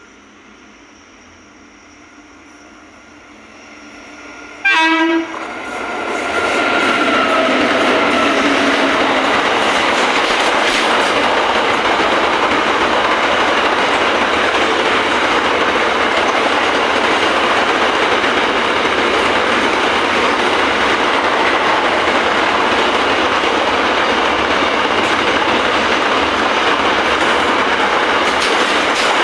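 Goods train hauled by two WAG9 electric locomotives: a faint approach swells, then a sudden loud horn blast sounds about five seconds in, with a lower horn tone trailing off over the next few seconds. After that comes the loud, steady rumble of the wagons running past on the track.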